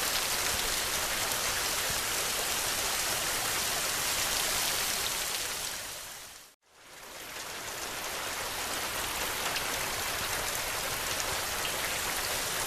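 Steady, heavy rain. Just past halfway it fades out to a moment of silence and fades back in, like a loop being spliced.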